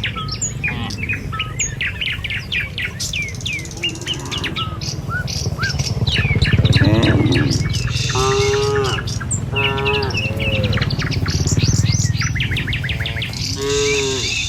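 Many small birds chirping busily, while cattle low a few times, in short calls about 8 seconds in, about 10 seconds in and near the end.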